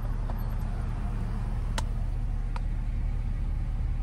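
Car engine idling, heard from inside the cabin as a steady low rumble, with a few light clicks about two seconds in.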